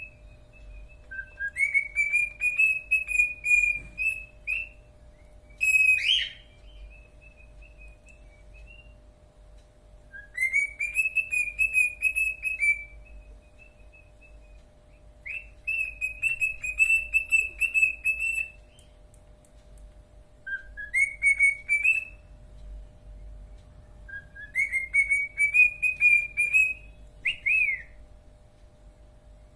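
Cockatiel whistling its song in repeated phrases, each sliding up and then held on a wavering whistled note, with pauses of a few seconds between phrases.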